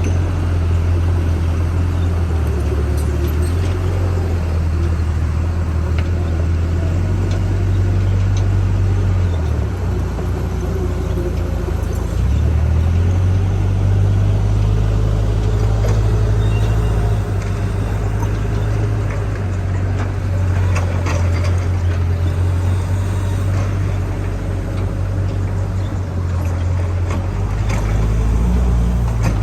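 Diesel engine of a backhoe loader running with a deep, steady drone that drops and rises in pitch a few times as it works, with scattered light clicks and knocks.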